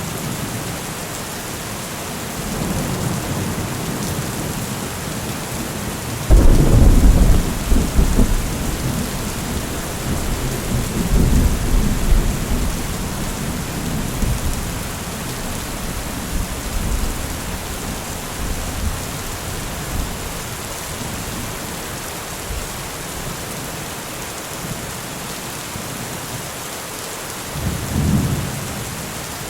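Steady, heavy rain falling, with a roll of thunder that breaks in suddenly about six seconds in and rumbles on for several seconds before fading. A fainter low rumble of thunder comes near the end.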